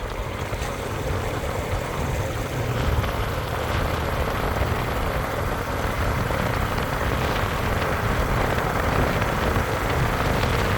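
Motorcycle running steadily, a continuous engine drone with road and wind noise and a strong low rumble, getting slightly louder after the first few seconds.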